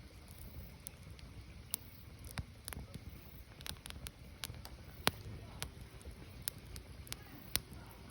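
Burning firewood crackling: irregular sharp pops and snaps, one louder snap about five seconds in, over a low steady rumble.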